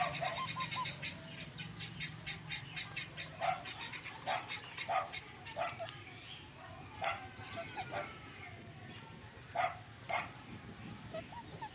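Birds chattering: a fast run of short high chirps for the first few seconds, then single sharp calls about a second apart.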